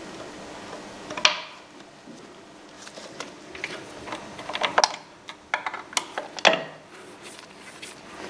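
Irregular clicks and metallic clinks of hand tools and parts being handled in a workshop, a few sharp knocks spaced a second or two apart.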